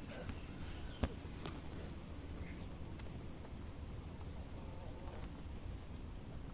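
An insect calling in short, high-pitched pulses that repeat evenly about once a second. A faint low outdoor rumble runs underneath, and there is a single sharp click about a second in.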